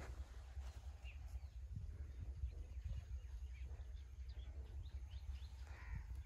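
Scattered short bird chirps over a steady, fluttering low rumble of wind on the microphone.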